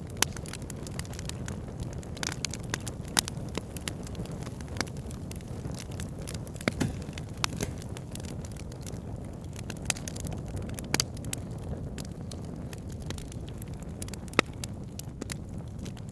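Wood fire burning in a fireplace: a steady low rumble of flames with scattered sharp crackles and pops, a few louder snaps among them.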